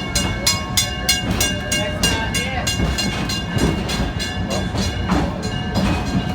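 Steam locomotive of a tourist railway running at a steady pace, its exhaust beating evenly about four times a second over a steady rumble of the moving train.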